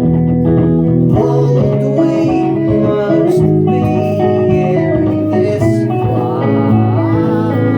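Live electric guitar music, likely a Fender Jazzmaster layered through a loop station: held chords and low notes ring steadily while picked notes move over them.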